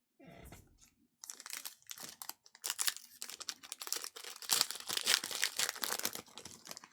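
A basketball trading-card pack's wrapper being torn open and crinkled by hand, a dense crackling that runs for several seconds after a short muffled bump near the start.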